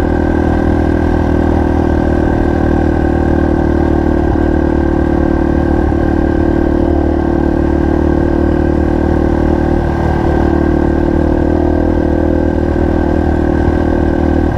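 Single-cylinder four-stroke trail motorcycle engine running at a steady, even speed, with no revving up or down.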